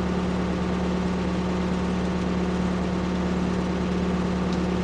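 Ford P-42 excavator's engine running steadily: an even, unchanging drone.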